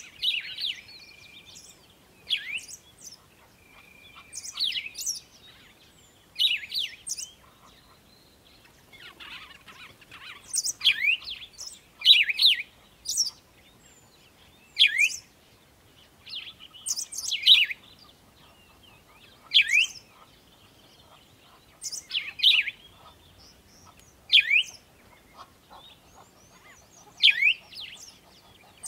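Birds calling: short, sharp chirps, each a quick sweep in pitch, repeated about every two seconds, with a brief steady whistle now and then between them.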